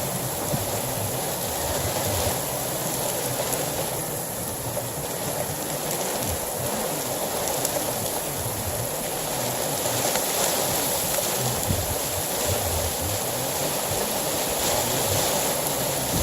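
Heavy rain pouring steadily, an even rushing noise with faint scattered ticks.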